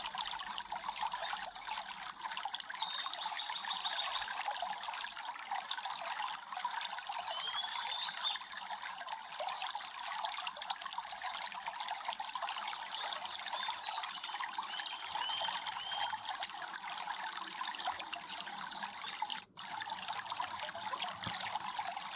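Water trickling and babbling steadily over stones in a small stream, with a few short bird chirps now and then above it. The sound cuts out for a split second near the end.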